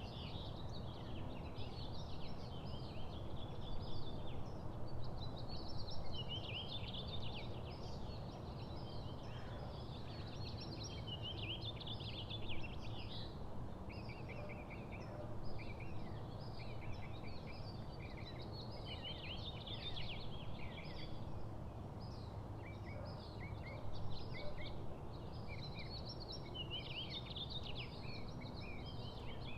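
Small songbirds chirping and calling, many short overlapping notes with no break, over a steady low background rumble.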